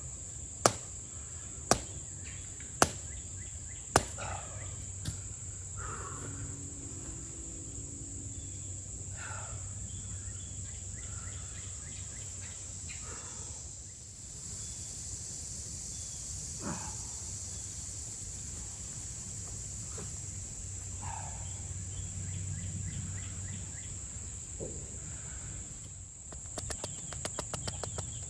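Four sharp hammer blows about a second apart in the first four seconds, then they stop. A steady high insect drone runs throughout, with scattered short bird chirps and a quick run of ticks near the end.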